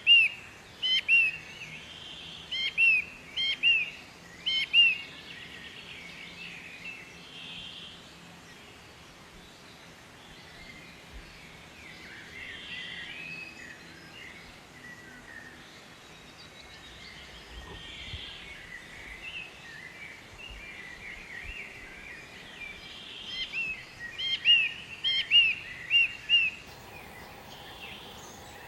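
Birdsong: one bird gives a rapid series of loud, short, repeated call notes in the first few seconds and again near the end, over fainter chatter and song from other birds.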